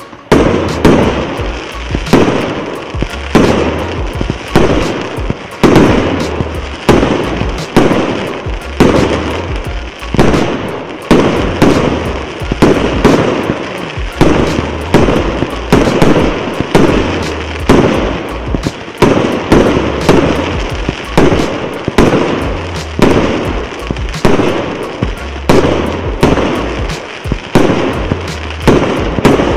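Consumer fireworks cake battery firing shot after shot: a steady run of loud bangs, about one a second, each trailing off before the next.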